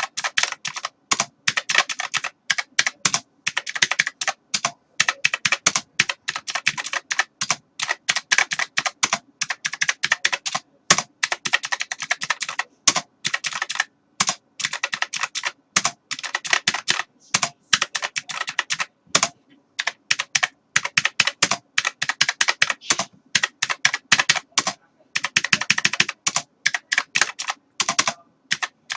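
Typing on a computer keyboard: fast runs of keystroke clicks with brief pauses between bursts, such as a short gap about two-thirds of the way through.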